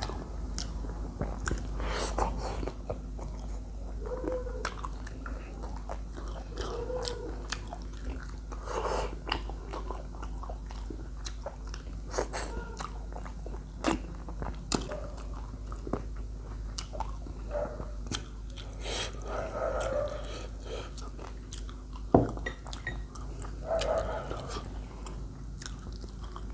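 Close-up chewing and biting of spicy chicken feet: a steady run of short crunches and wet mouth clicks, with one sharper crack late on.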